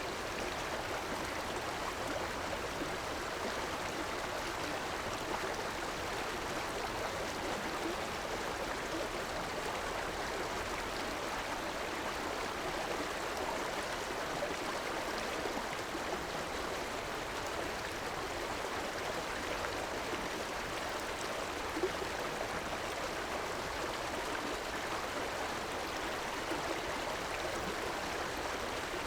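A river's water flowing and rushing steadily, with fine gurgling and splashing flickers.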